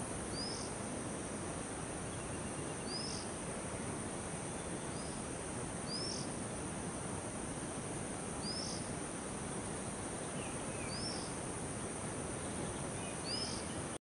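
A bird giving a short, high, hooked call, repeated six times about every two and a half seconds, over a steady background hiss.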